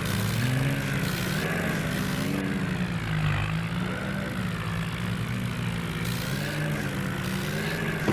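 Tractor engine running steadily, its pitch rising and falling slightly as the revs vary.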